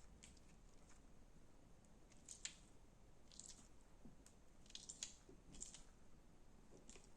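Slime being handled, giving faint, scattered squishy crackles: about half a dozen soft clicks spread through a near-silent background.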